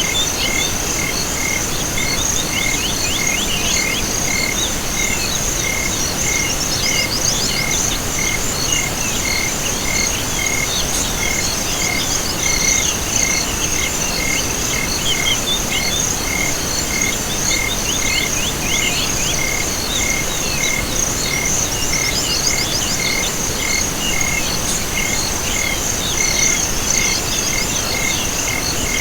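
Night chorus of insects and frogs: a steady high insect trill, a regular chirp somewhat faster than once a second, and runs of rapid calls that come back every few seconds over a soft background hiss.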